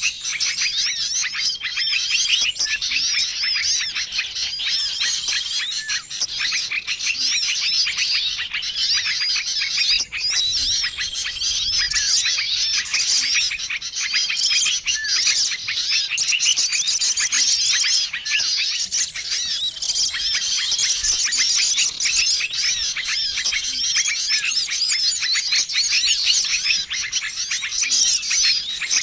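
Bird-lure recording of many small songbirds chirping and twittering together in a dense, unbroken chorus, with a short held whistle repeating every couple of seconds above it.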